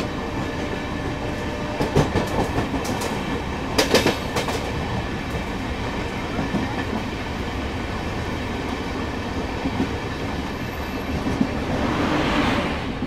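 Passenger train running at speed while passing another train on the parallel track: a steady rumble and rush of wheels on rail, with a few sharp clicks about two and four seconds in. The sound swells near the end as the other train's electric locomotive comes alongside.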